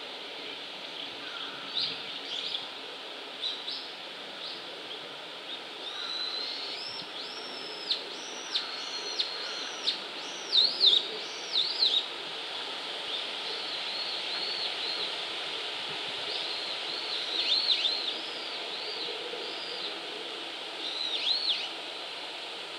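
Birds calling with repeated short, high, arching chirps, coming in clusters that are thickest from about six to twelve seconds in and again near the end, over a steady background hiss.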